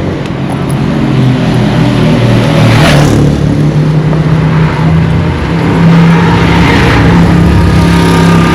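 A motor vehicle's engine running close by with a steady low hum, getting louder over the first few seconds.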